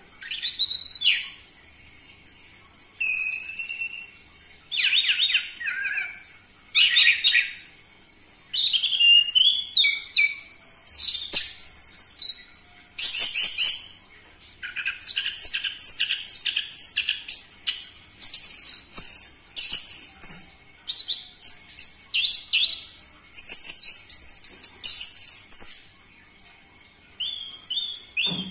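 Orange-headed thrush singing: a varied run of quick, high whistled and chattering phrases, each about a second long, with short pauses between them.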